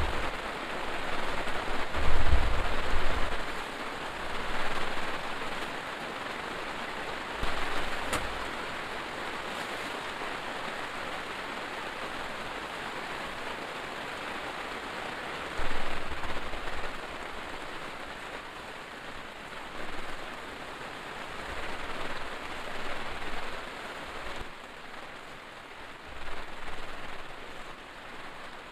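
Heavy rain falling steadily, a dense even hiss, with a few brief low rumbles about two, eight and sixteen seconds in.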